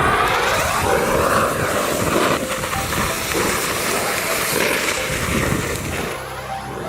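Volcano firework fountain spraying sparks with a loud, steady hiss that eases off about six seconds in.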